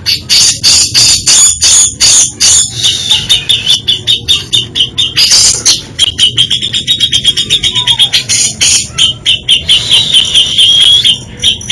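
Cucak jenggot (grey-cheeked bulbul) singing loudly: a fast run of sharp chattering notes, with a high thin note held underneath through most of the song.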